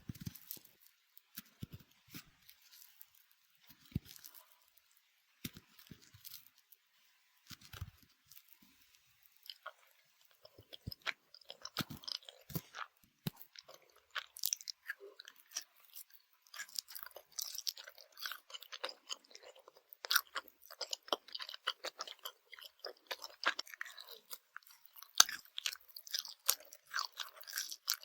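Close-miked chewing of Swedish gummy candy: scattered clicks at first, then dense, continuous crunchy crackling from about ten seconds in.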